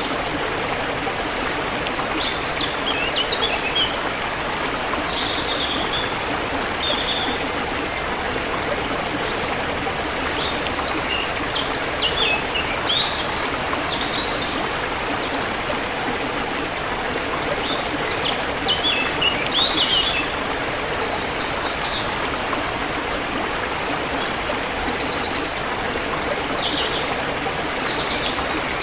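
Forest stream flowing steadily, with small birds chirping in short bursts every few seconds above the rush of water.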